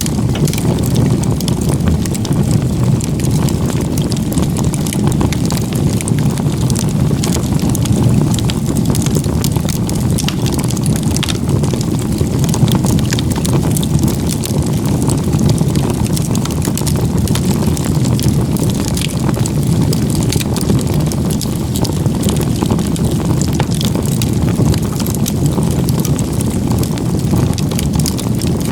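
Campfire of firewood stacked log-cabin style burning hard: a steady low rush of flame with many small crackles and pops throughout.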